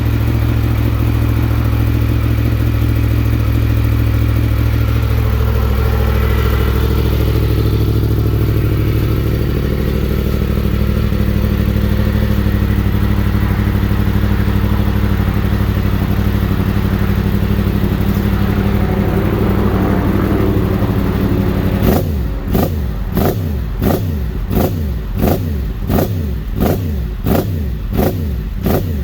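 2017 Yamaha FZ-10's crossplane inline-four, fitted with a full Graves titanium exhaust, idling steadily while warming up after a cold start. Near the end the sound turns to a regular pulsing, about two beats a second.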